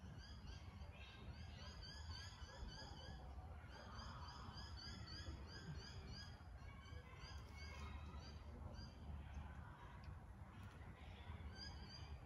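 Faint birdsong: runs of short, quickly repeated high chirping notes from birds in the trees, coming and going, over a steady low rumble.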